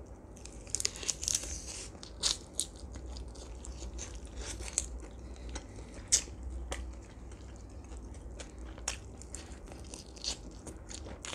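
Close-miked biting and chewing of roasted duck meat off the bone, with many short sharp mouth clicks scattered throughout; the loudest comes about six seconds in.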